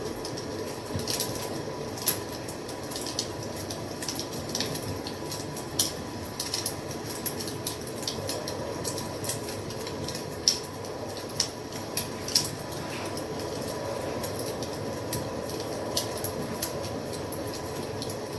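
Wood fire crackling: a steady hiss with irregular sharp pops and snaps throughout, a few of them louder.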